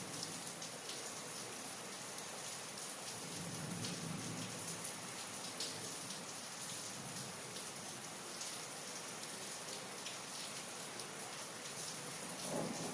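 Steady rain falling, with many separate drops striking nearby surfaces.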